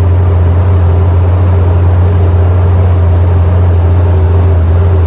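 Mining haul truck's diesel engine running while hauling, a loud, steady low drone.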